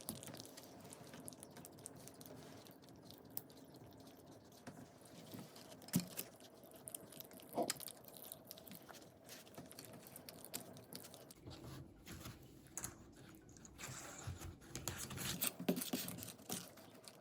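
LEGO pieces being handled and pressed together: scattered small plastic clicks and rattles, with a low rumble about two-thirds of the way through.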